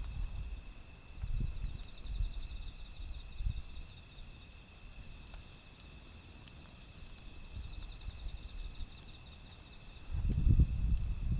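Typhoon wind gusting against the microphone in low rumbling bursts, strongest near the end, over insects chirping steadily.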